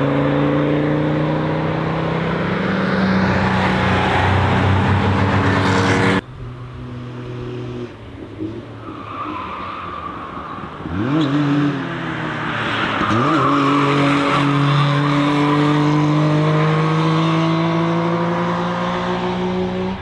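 Car engines working hard through a corner at track speed. There is an abrupt cut to a different car about six seconds in. The second car's revs dip and climb twice, with tyres squealing.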